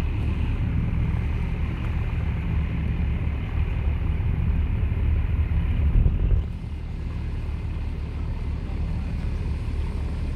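Boat engine running with a steady low rumble, which drops in level about six and a half seconds in.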